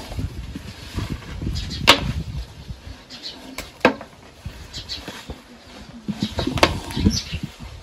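Three sharp knocks or clicks, spaced about two seconds apart, over low rustling handling noise, with faint bird chirps.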